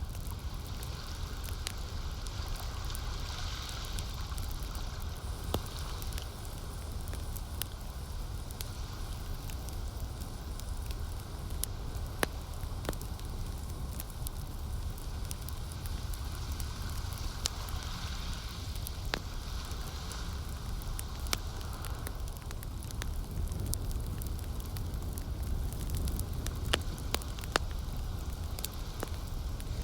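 Campfire crackling: scattered sharp pops and snaps, a few louder than the rest, over a steady low rumble.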